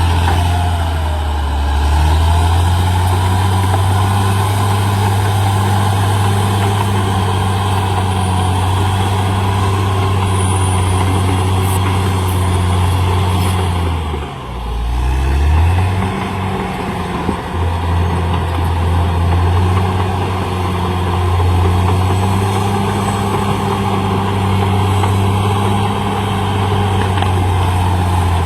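CAT D6R XL bulldozer's diesel engine running steadily under load, with a low, even drone. About halfway through the engine pitch drops sharply, then climbs back up to its steady note.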